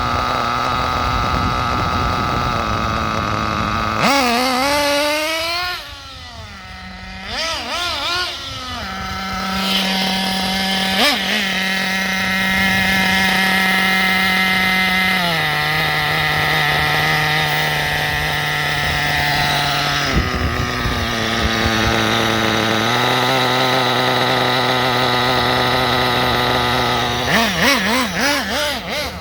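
Kyosho RB .21 nitro engine of an MP10 1/8-scale buggy running, being tuned from its break-in setting toward a steady idle. Its idle speed steps up and down a few times, with quick revs rising and falling about five seconds in and again near the end.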